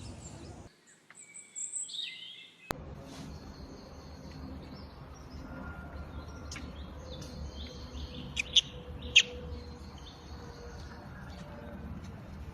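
Short, high-pitched chirping calls over a steady outdoor background hiss. Two sharp, loud chirps come about eight and nine seconds in.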